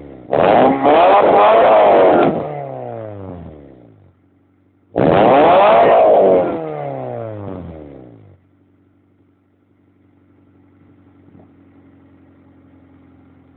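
1994 Acura Integra's engine heard through an RS-type muffler, revved twice. Each time it snaps up to high revs, holds about two seconds, then winds back down to idle. It idles quietly for the last few seconds.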